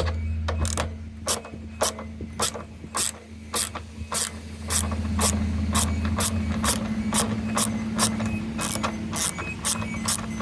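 Ratchet spanner clicking steadily, about three clicks a second, as a bolt is undone on a washing machine's frame, over a steady low hum.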